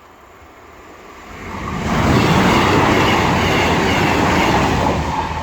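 CrossCountry diesel express passenger train passing at speed. The noise builds over about two seconds, holds loud for about three seconds, then begins to fade near the end.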